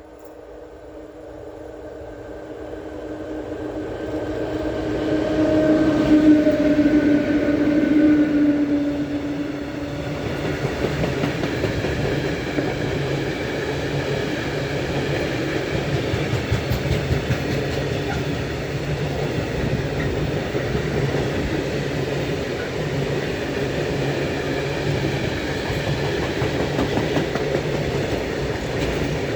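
Train on an electrified main line approaching with a steady electric hum, passing loudest about six to eight seconds in. A long, even run of rolling wheel noise follows as the cars go by.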